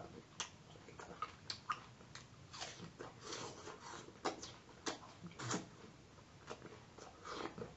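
Close-up mouth sounds of a person chewing a mouthful of fresh fruit: irregular wet smacks and short crunchy clicks.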